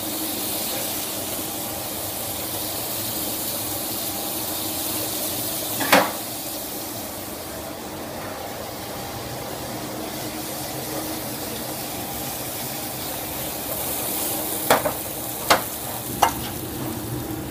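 Potato strips and pieces of beef sizzling as they fry in pans, over a steady hiss with a faint hum underneath. Sharp knocks of utensils against the pans come once about six seconds in and three times in quick succession near the end.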